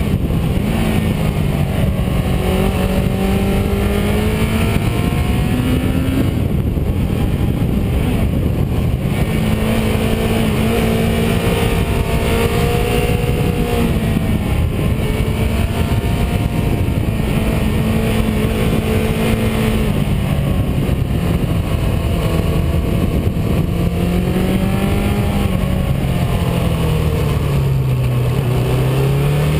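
Car engine under way, its note climbing with revs, stepping down at gear changes and easing off, then dipping low near the end and climbing again, over a steady rush of road and wind noise.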